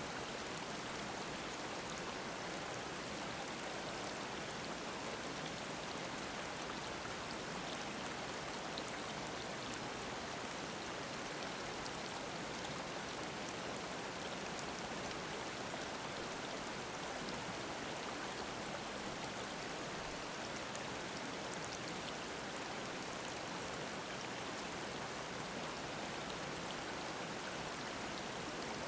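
Mountain stream babbling steadily, with faint small splashes scattered through it.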